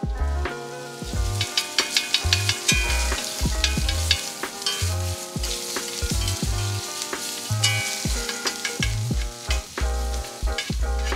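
Grated garlic and a rib-eye steak frying hard in hot rendered beef fat, sizzling with rapid crackling pops, while a spoon stirs the garlic around the pan.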